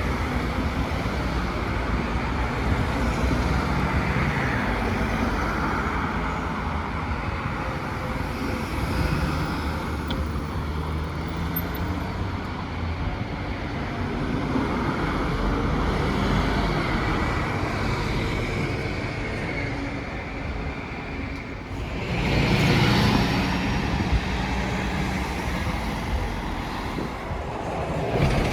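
Street traffic with buses running past: steady road noise, and one vehicle passing close about three quarters of the way through, the loudest moment.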